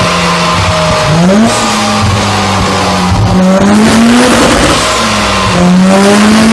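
A high-performance car engine under acceleration, loud, its pitch holding, then climbing about a second in, dipping briefly past the middle and climbing again near the end.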